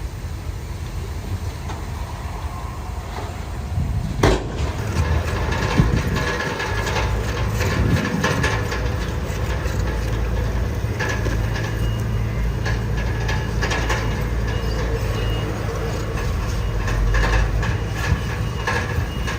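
Bulldozer's diesel engine running steadily, with a sharp knock about four seconds in, followed by continuous metallic clanking and rattling.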